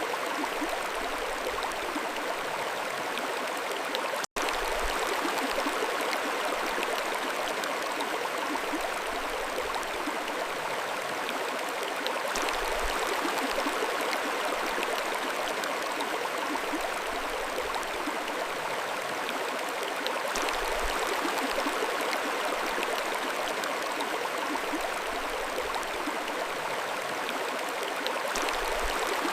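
Mountain stream flowing, a steady rushing and gurgling of water, with a momentary dropout to silence about four seconds in.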